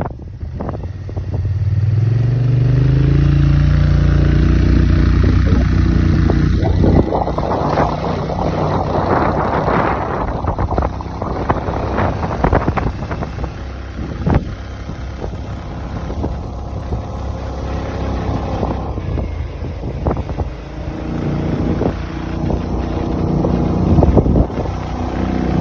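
Kymco AK550 maxi-scooter's parallel-twin engine accelerating, rising in pitch over a couple of seconds, then running at speed under heavy wind buffeting on the microphone. Near the end it rises in pitch again as it accelerates.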